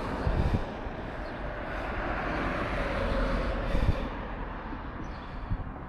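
Wind rushing over the microphone of a moving bicycle, a steady rumble with two stronger gusts, about half a second in and near four seconds in.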